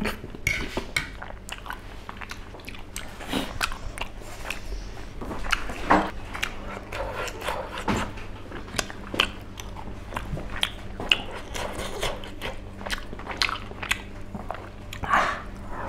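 Close-up mukbang eating sounds: a person chewing and biting spicy tteokbokki rice cakes and pork, with many short, irregular wet mouth clicks and smacks.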